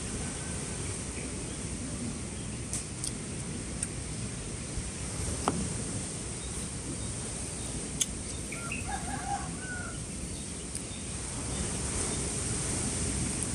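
A short, faint bird call about nine seconds in, lasting about a second with a brief rising note. It sounds over steady, low background noise and a few sharp clicks.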